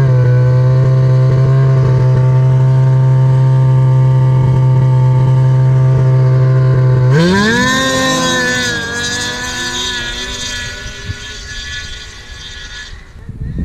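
Ski-Doo Rev Gen4 850 E-TEC two-stroke twin with a Speedwerx standard lightweight muffler, held at a steady 4,000 RPM. About seven seconds in the revs rise sharply, then drop, and the sound fades away.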